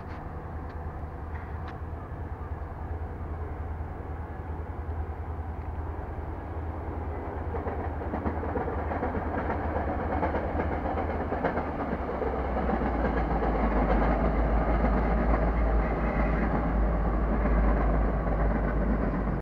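MBTA commuter rail train, a diesel locomotive hauling bilevel coaches, rumbling across a river bridge. The rumble grows steadily louder and deeper, loudest over the last several seconds.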